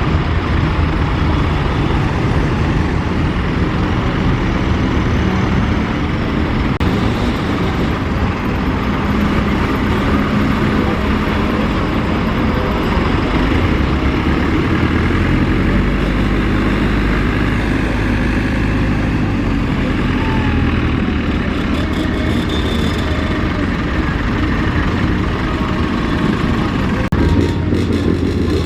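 Tractor engines running loud and steady, with their low hum shifting in pitch now and then, and a mix of background noise over them.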